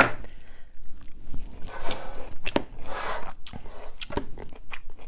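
A person biting and chewing food close to the microphone: a run of sharp crunches and clicks.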